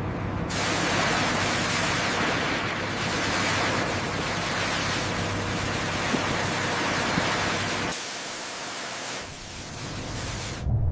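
A steady rushing hiss of noise that cuts off abruptly near the end, with its low rumble dropping away for a second or so a little before that.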